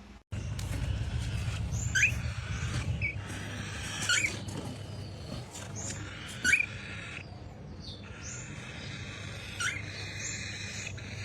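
A bird's short rising chirps, repeated about every two seconds over a steady low hum.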